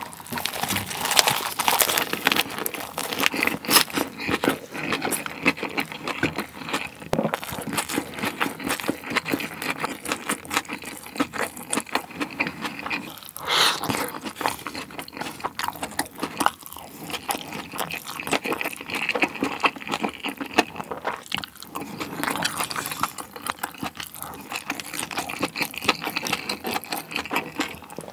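Close-miked eating: chewing and crunching a lettuce wrap of spicy pork belly bulgogi with green onion, a dense run of crisp, wet mouth sounds.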